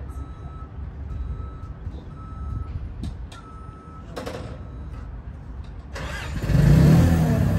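A vehicle's reversing alarm beeping about once a second over a low engine rumble. About six seconds in the sound changes abruptly to a louder engine noise.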